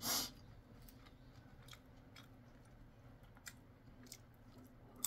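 Mouth-close chewing of crispy, sauce-glazed fried chicken bites (dakgangjeong): faint crunching clicks spread through the stretch. A short, louder noise comes right at the start.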